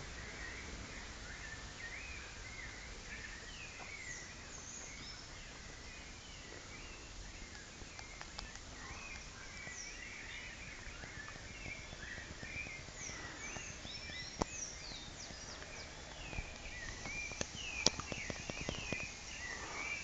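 Several wild birds chirping and calling, a busy mix of short rising and falling notes over a steady low background hiss. A few sharp clicks come near the end.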